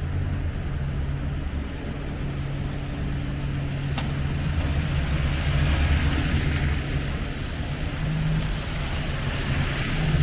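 Steady low hum of city street traffic, with a single sharp click about four seconds in.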